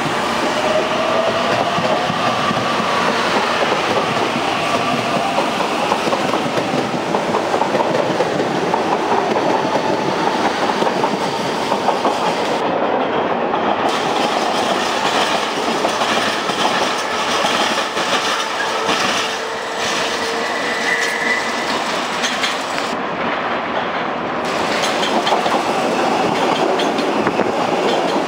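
Electric commuter trains running through a station: a steady rumble with the clatter of wheels over rail joints. A rising electric whine from a train's traction motors is heard in the first few seconds as it picks up speed.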